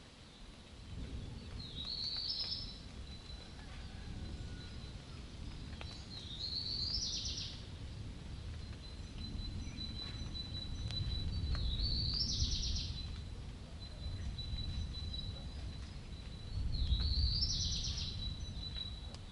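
A bird calling four times, about every five seconds, each call a short phrase rising in pitch. Behind it are a faint steady high tone and a low rumble that swells and fades.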